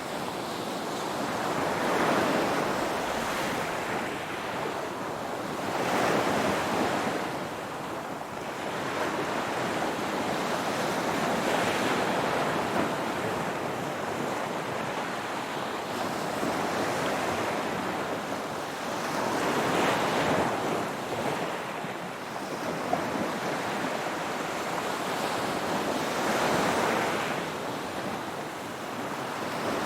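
Ocean waves breaking and washing onto a shore, in a steady rush that swells every few seconds as each wave comes in.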